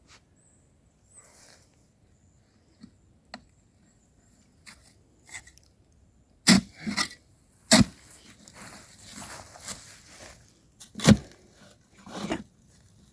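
A digging tool striking and scraping into rocky lime-rock ground: four sharp, loud strikes in the second half, with scraping between them and a few light clicks before.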